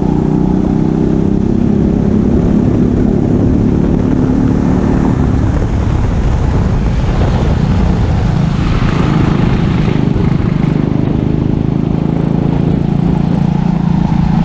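Go-kart engine running close to the microphone, with rushing wind noise; its pitch drops a few seconds in and stays lower.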